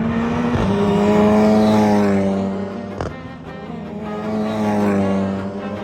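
Two cars passing at speed one after the other, each engine note swelling and then dropping in pitch as it goes by. There is a sharp click about halfway through.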